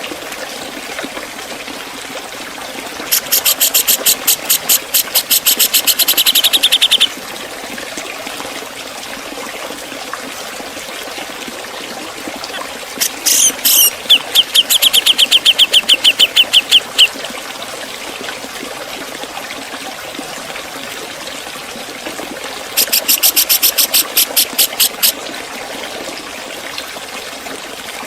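Grey-cheeked bulbul (cucak jenggot) giving three bursts of rapid, sharp repeated notes, its 'ngepik' call, each lasting two to four seconds, over a steady background hiss.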